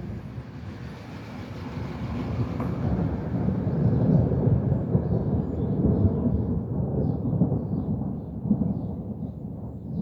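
Rolling thunder: a long low rumble that swells to a peak in the middle and slowly dies away.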